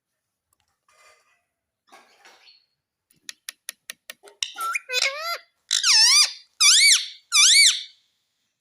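A pet parrot makes a quick run of sharp clicks, then a series of shrill calls that rise and fall in pitch, the last three the loudest.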